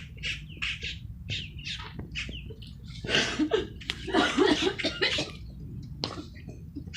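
A flock of birds squawking with repeated short, harsh calls while they squabble over food, with a stretch of human laughter about three to five seconds in.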